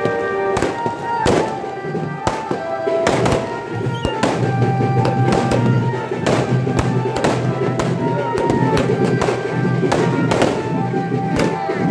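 Firecrackers bursting in a series of sharp bangs, roughly one a second, over background music.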